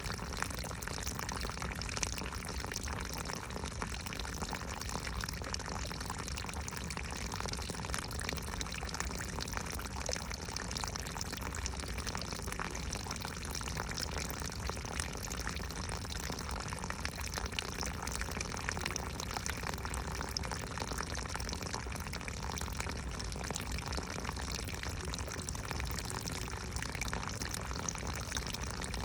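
Running water splashing steadily, a continuous rush with many small droplet ticks.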